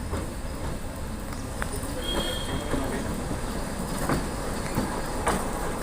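Train on the Ooty line (Nilgiri Mountain Railway) running: a steady low rumble with a few sharp clacks and a brief high squeal.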